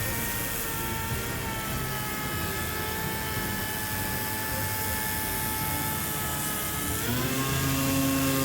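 A motor running steadily, then rising in pitch and getting louder about seven seconds in.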